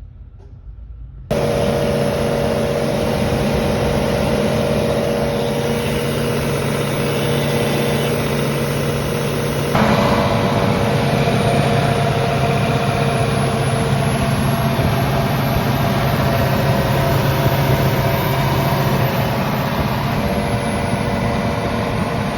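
Volvo D13 diesel engine of an excavator running steadily, cutting in abruptly just over a second in. About ten seconds in, it steps up louder with more hiss.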